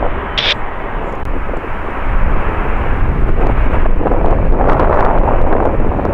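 Jet airliner engines running at high power close by, a loud, deep rumbling noise that grows louder about two seconds in.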